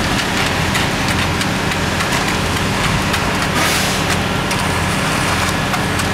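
Heavy construction machinery engine running steadily at a concrete pour, with scattered sharp ticks and a brief hiss about halfway through.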